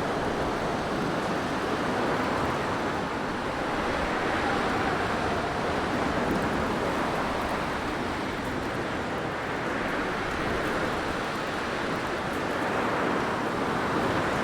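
Blizzard wind rushing steadily, slowly swelling and easing, with a faint howl.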